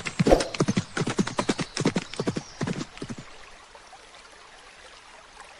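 A horse: a rapid run of pulsed sounds, about six a second, lasting some three seconds and then stopping.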